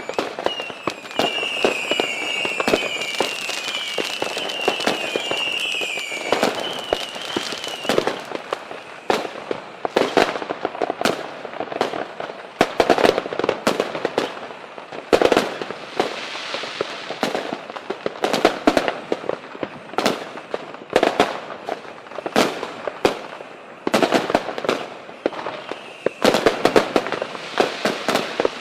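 Fireworks going off: a dense run of sharp cracks and bangs, with a warbling whistle rising and falling over the first several seconds that stops about eight seconds in.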